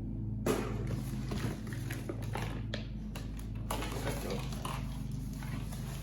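Handling noise of packaging and a boxed part being worked loose: irregular rustles, scrapes and light knocks over a steady low hum.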